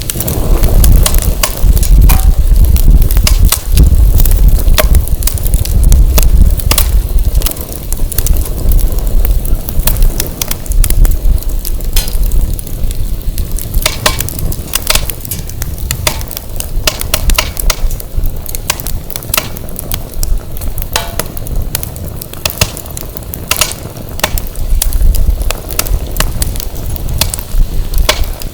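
Firewood burning in an open fire pit, crackling with many sharp pops and snaps. Under the crackle, wind buffets the microphone with a low rumble that swells and eases.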